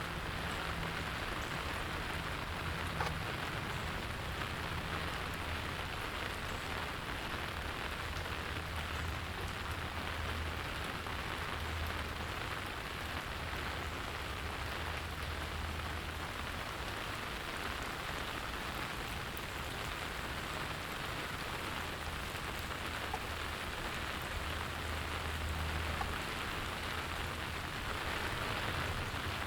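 Steady rain falling and pattering on surfaces, an even hiss with scattered drops, over a low, steady hum.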